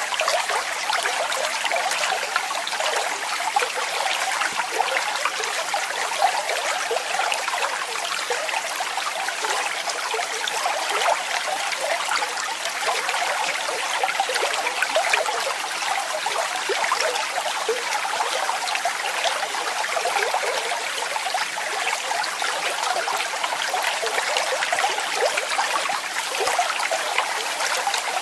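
Waterfall: falling water splashing steadily, a continuous light, hissy rush with fine flickering splashes and no deep rumble.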